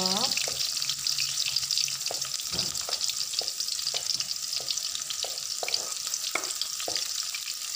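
Shallots and garlic frying in hot oil in a wok, a steady sizzle. Over it comes a run of light knocks, about two a second, as garlic slices are pushed off a wooden cutting board into the pan.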